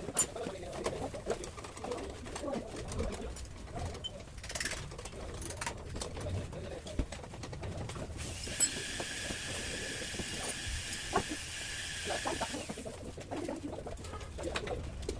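Pigeons cooing repeatedly. From about eight seconds in, a steady hiss with a thin whistle runs for about four seconds and then stops.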